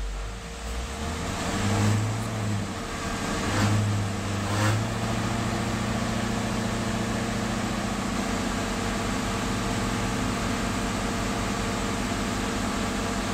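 Blue Bird bus engine with the throttle raised, surging twice and then held at a steady fast idle to drive the air compressor, building brake air pressure toward the governor cut-out.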